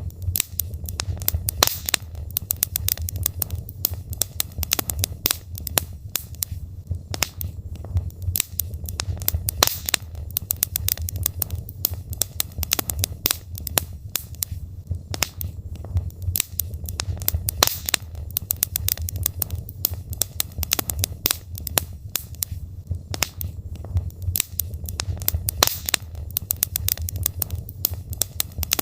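Wood fire burning in a fireplace: logs crackling and popping in dense, irregular snaps over a low, steady rumble of the flames.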